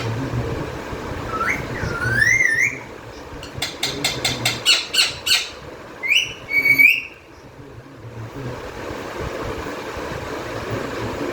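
Parrot whistling in wavy rising-and-falling notes, then a quick run of about ten short, sharp calls, then more whistled notes, over a low steady hum.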